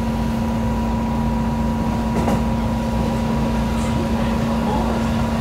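Electric train running, heard from inside the carriage: a steady rumble of wheels and motors with a constant hum, and a single click about two seconds in.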